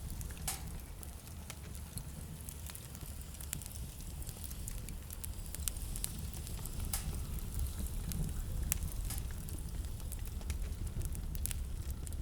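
Wood fire in a fireplace crackling, with sharp pops and snaps at irregular moments over a steady low rumble.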